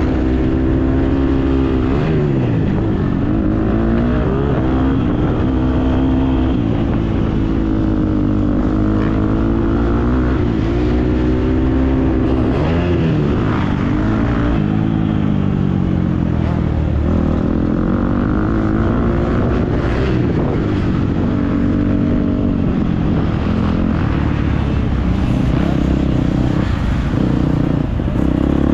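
Motocross dirt bike engine revving up and down as the throttle is opened and closed, its pitch climbing and dropping every few seconds.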